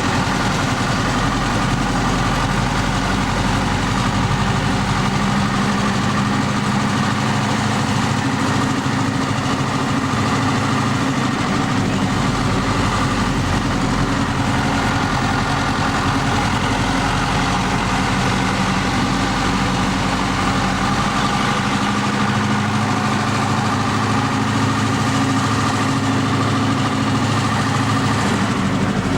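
Tractor diesel engine running at a steady speed, with an even engine note throughout.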